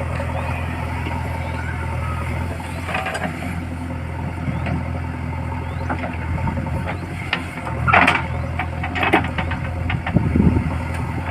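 Heavy diesel engine idling steadily, with a few loud metallic clanks and scrapes in the last few seconds.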